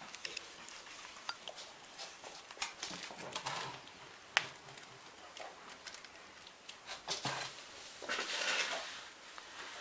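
Scattered light taps, clicks and rustles in a small room, with one sharper click about four seconds in, as a kitten moves about and plays.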